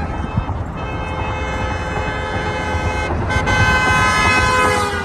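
A vehicle horn blowing one long, steady blast that grows louder in its second half, over a constant low background noise.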